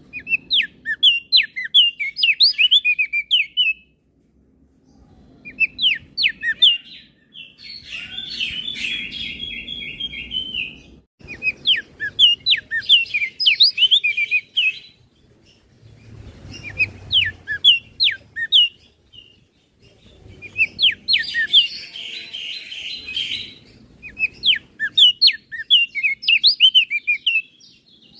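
Crested white-eye (opior jambul) singing: bouts of rapid, varied chirping notes a few seconds long, broken by short pauses, with harsh buzzy passages twice.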